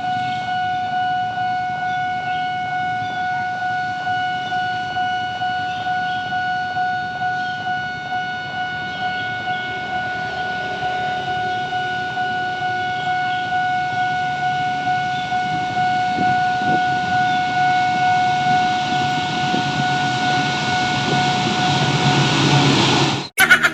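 A train horn held on one steady note for a long time, over a rhythmically pulsing rumble that grows louder, then cut off abruptly near the end.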